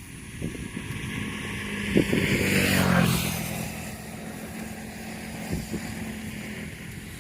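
A motor vehicle passing on the road: its engine and tyre noise swell to a peak about three seconds in, then fade away.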